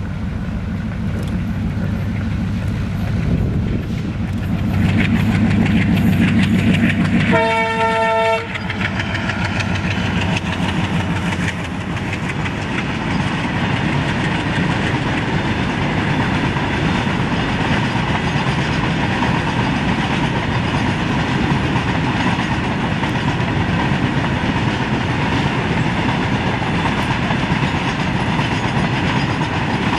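Twin ALCO diesel locomotives pass, their engines running hard under load. One horn blast sounds about seven seconds in. After it, a long rake of tank wagons rolls by with a steady clatter of wheels over the rail joints.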